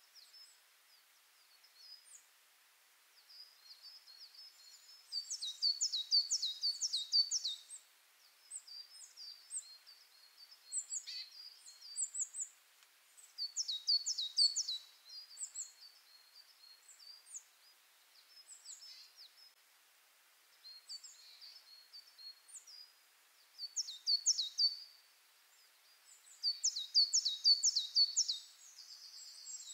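Songbirds singing: several phrases of quick, high, falling notes, each a second or two long, with scattered short chirps between them.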